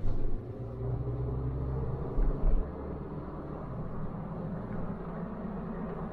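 A car's engine running steadily while driving, a low rumble with two short thumps about two seconds in.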